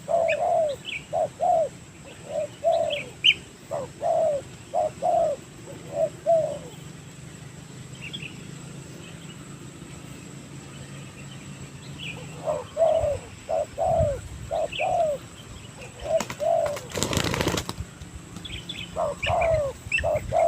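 Spotted doves cooing in runs of short repeated notes, with a pause of several seconds in the middle. About 17 seconds in comes a brief flurry of flapping wings, and small birds chirp faintly in between.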